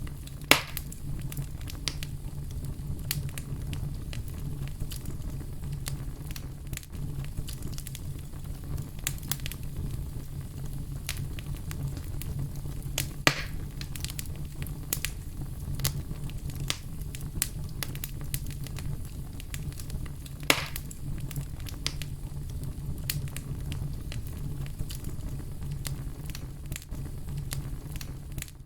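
Wood fire crackling steadily over a low rumble, with frequent small snaps. Three louder pops stand out: about half a second in, near the middle, and about two-thirds of the way through.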